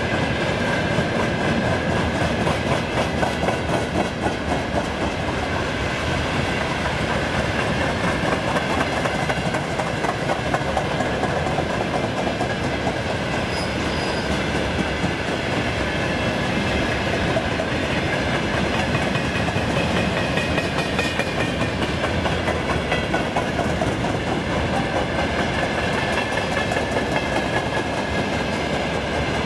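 Freight train's open gondola wagons rolling past, their steel wheels clattering over the rail joints in a steady, rapid clickety-clack, with a thin high whine from wheels on rail held underneath.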